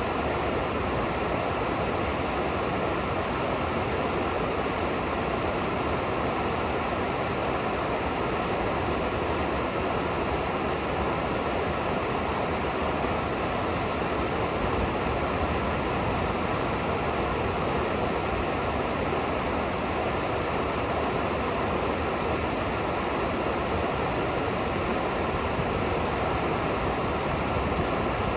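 River water rushing steadily below, a constant, even hiss with no breaks.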